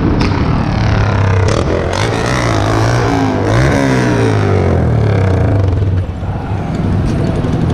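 Road traffic with a motor vehicle passing close by, its pitch sliding as it goes past about three and a half seconds in.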